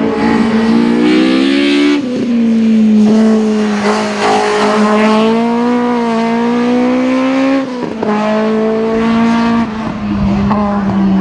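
Race car engine at high revs, accelerating hard: its pitch climbs steadily and drops sharply at upshifts about two seconds in and again near eight seconds.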